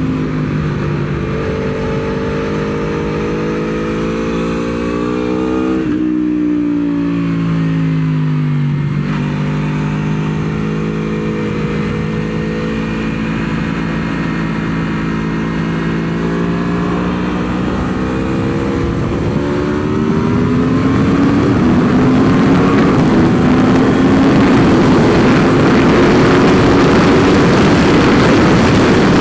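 Aprilia Tuono V4's 1100 cc V4 engine from onboard at speed on track, pitch climbing as it pulls, dropping twice between about six and nine seconds in as the throttle is closed and it is shifted down, then climbing steadily again. From about twenty seconds in it grows louder, with a rush of wind noise over it.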